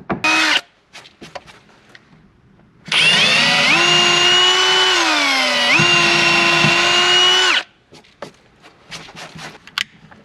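Power drill driving screws into the wooden bench top: a brief burst, then a steady motor whine lasting about four and a half seconds that sags in pitch under load midway and picks back up. Scattered knocks and clicks come before and after.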